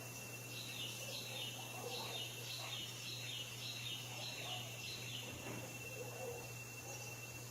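A bird calling: a run of about eight short, high, falling notes, roughly two a second, over a steady faint high whine.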